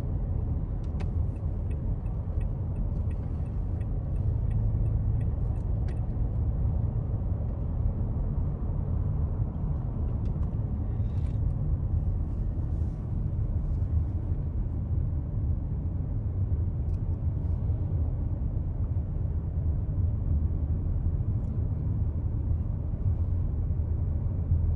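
Steady low rumble of road and engine noise inside a moving car's cabin, with a few faint light ticks in the first few seconds.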